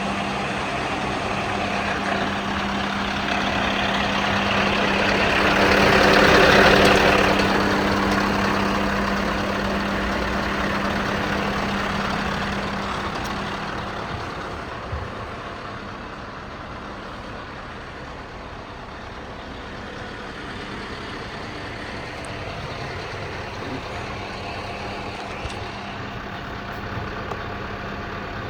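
Scania R560's V8 diesel engine idling with a steady hum. It grows louder to a peak about six to seven seconds in, then falls away to a quieter, steady level for the rest of the time.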